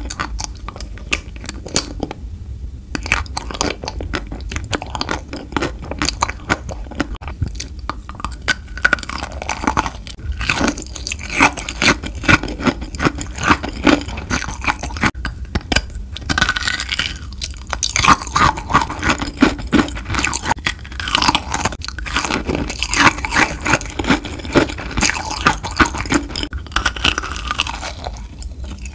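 Close-miked chewing of kohakutou, Japanese crystal candy: its crisp sugar crust crunches in many rapid small crackles between softer chewing of the jelly inside.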